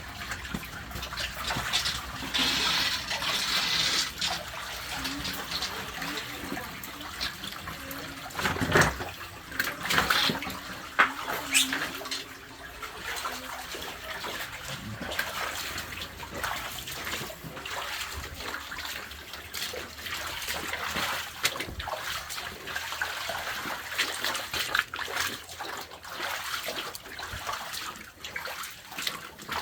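Running water with scattered splashes and knocks, as of people wading through shallow water.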